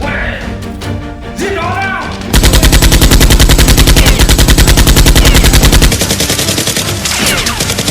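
Rapid machine-gun fire sound effect. It bursts in loudly a couple of seconds in, runs for about three and a half seconds, then carries on more quietly, with background music underneath.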